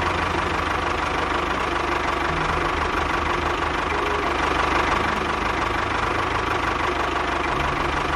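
Tractor engine running steadily with a low, rapid rhythmic chug.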